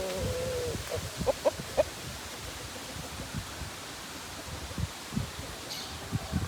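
Aseel chickens calling: a drawn-out, steady-pitched call ends just under a second in, followed by a few short clucks, then only scattered soft knocks and rustling.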